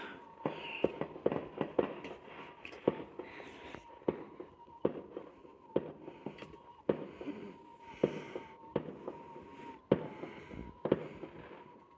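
Fireworks going off: a string of irregular sharp bangs and pops, roughly one or two a second.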